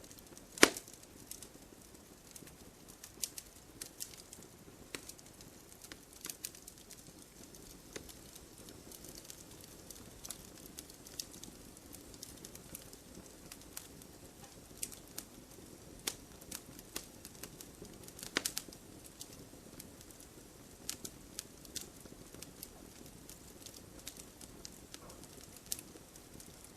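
Campfire burning: irregular sharp pops and crackles of burning wood over a faint steady rush of flame. A louder pop comes just after the start, and a quick cluster of pops about two-thirds of the way through.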